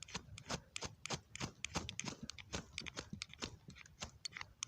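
A ferrocerium fire-starter rod being scraped hard and fast with a striker, over and over: short raspy strokes at roughly three a second.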